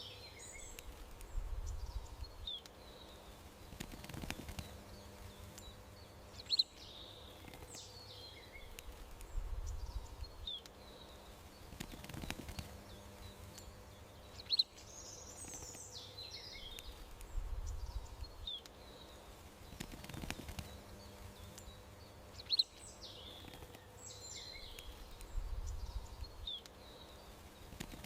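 Garden birdsong ambience: short high chirps and twittering from small songbirds, repeating in the same pattern about every eight seconds like a looped nature track, over a faint steady hum.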